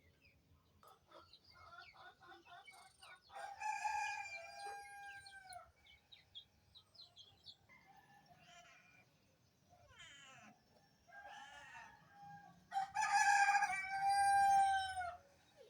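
A rooster crowing twice, each crow a run of short notes leading into a long held note that drops at the end, with fainter calls in between.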